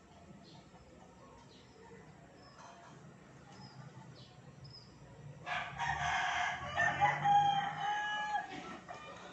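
A rooster crowing once, starting about five and a half seconds in and lasting about three seconds, ending on a held note.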